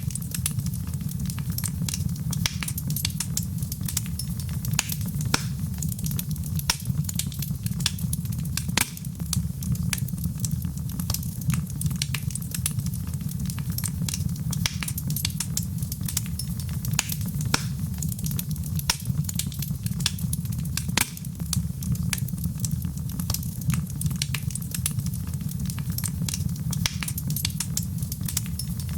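Wood fire in a fireplace crackling, with frequent sharp pops and snaps over a steady low rush of flame.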